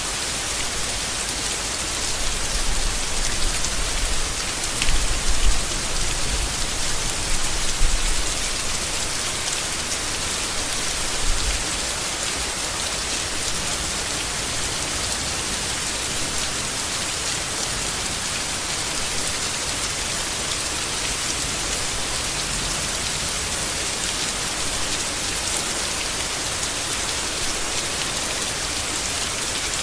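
Steady heavy rain falling on leaves, a dense even hiss. There are a few low rumbles in the first twelve seconds or so.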